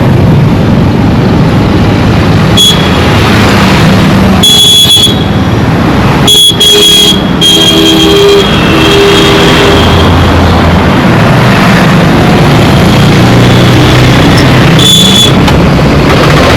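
Dense road traffic: many vehicle engines running together in a loud, continuous din, cut through by several short horn beeps.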